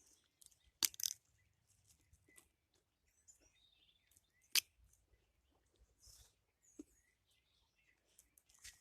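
Quiet scattered clicks and soft rustling, with sharper clicks about a second in and about four and a half seconds in.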